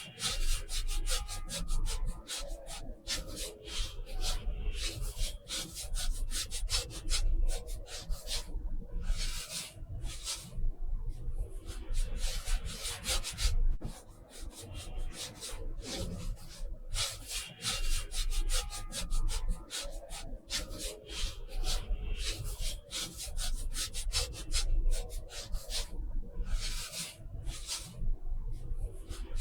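Paintbrush strokes on watercolour paper: an irregular run of short scratchy brushing strokes, several a second, with now and then a longer sweep.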